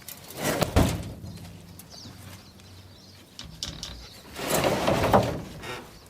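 Two loud rough scraping, shoving sounds, each about a second long, about half a second in and again near the five-second mark: a small-block Chevy V8 engine block being wrestled into a pickup truck's bed.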